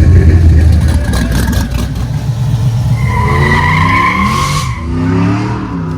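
Car engine revving loudly, its pitch climbing over the second half, with a high squeal alongside it for a second or two about halfway through.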